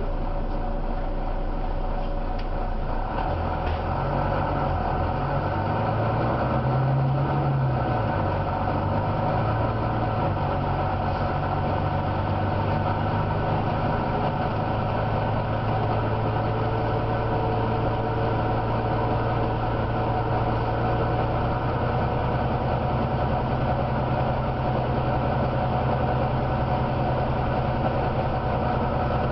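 Volvo B9TL bus's diesel engine running with a deep growl; its pitch rises and falls a few seconds in, then settles into a steady drone.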